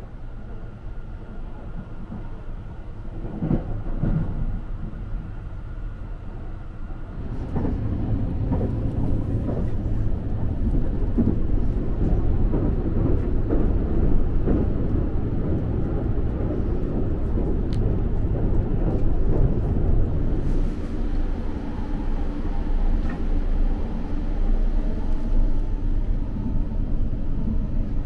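Running noise of the Sunrise Izumo sleeper train heard from inside a carriage: a steady low rumble of the wheels on the rails with faint rattles, growing louder about seven seconds in.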